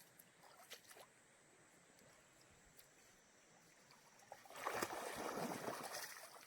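A golden retriever splashing through stream water, a noisy sloshing stretch of about two seconds that starts about four seconds in. Before it there is only a faint trickle of the stream and a few light clicks.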